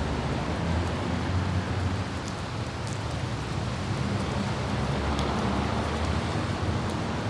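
Steady light rain and wind over the low, even rumble of a car driving on a wet city road, with a few faint raindrop ticks.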